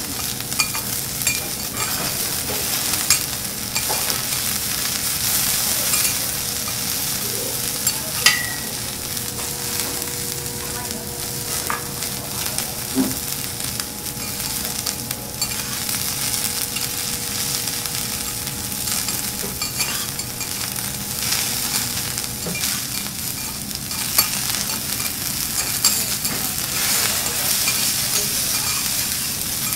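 Food sizzling and frying steadily on a hot teppanyaki griddle, with scattered sharp clicks.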